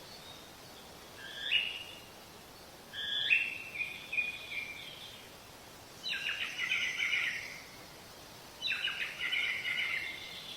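A songbird calling in four short phrases of chirps and stepped whistled notes, over a steady faint hiss.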